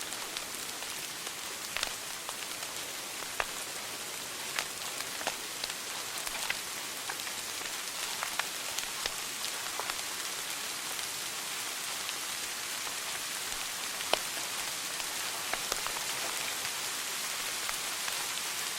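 Wood fire burning in a fireplace: a steady hiss with scattered sharp crackles and pops, the loudest about 14 seconds in.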